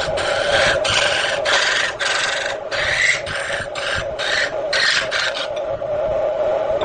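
A hand tool or abrasive scraping against wood spinning on a wood lathe, in a run of short strokes about two a second, stopping about five and a half seconds in. A steady hum from the running lathe continues beneath.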